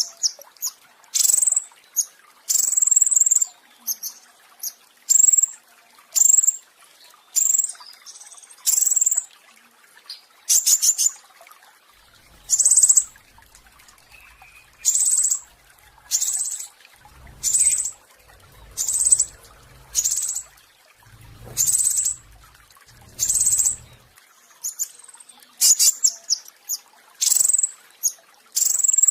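A petis raja songbird singing its rolling 'roll tembak' song: a long run of short, high-pitched bursts, about one a second, with brief pauses between.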